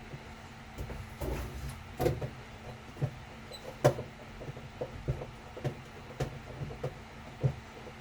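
A series of light knocks and thumps, roughly one every half to one second, over a faint steady low hum.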